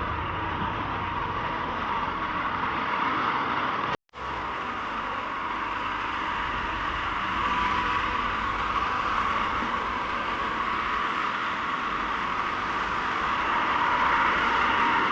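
Motorcycle on the move: steady engine and wind noise, with an abrupt cut about four seconds in before the same noise resumes.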